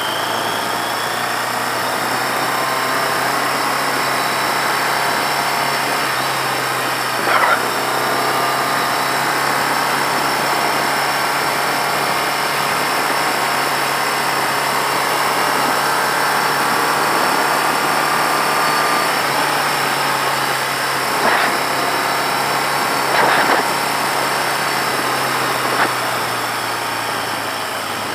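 1982 Yamaha XJ650's air-cooled inline-four engine running as the motorcycle is ridden. Its note climbs slowly and eases off about twenty seconds in. A few short thumps come through, about 7, 21, 23 and 26 seconds in.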